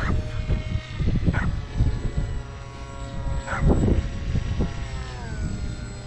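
Electric motor and propeller of a foam FPV combat wing whining steadily in flight, the pitch dropping a little after five seconds as the throttle comes back. Heavy wind buffets the microphone throughout, with gusty bursts.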